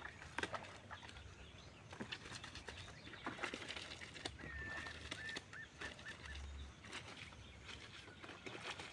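Clothes being hand-washed in a basin of water: irregular small splashes and rubbing of wet fabric, with a short bird call about halfway through.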